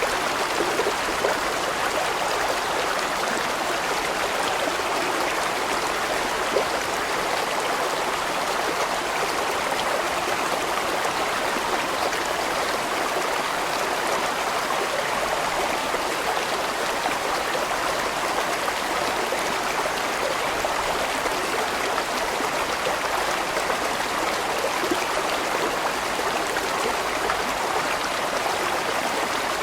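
A large stream flowing, an even, steady rush of water.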